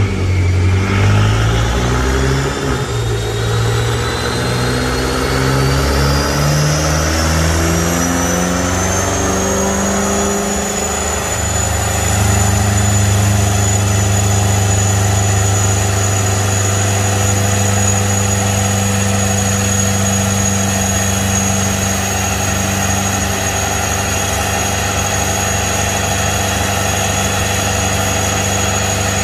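Twin-turbo 4.4-litre V8 of a BMW M5 F10 with catless downpipes, running under load on a chassis dyno. Its pitch climbs over the first ten seconds or so with a high whine rising alongside, then holds steady at a constant high engine speed.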